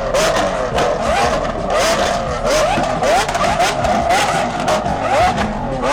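Lamborghini Aventador SVJ's V12 being revved hard through an aftermarket exhaust. It makes rapid, repeated throttle blips, each a short rising pitch, with sharp crackles between them.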